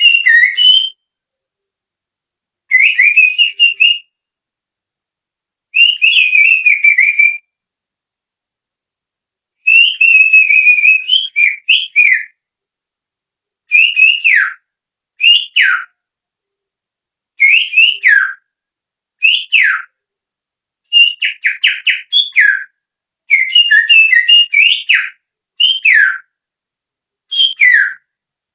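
Finger whistling with the little fingers, imitating the song of a sirtu songbird. It comes as short bursts of warbling, chirping whistles separated by silent gaps, and several phrases end in a sharp downward slur.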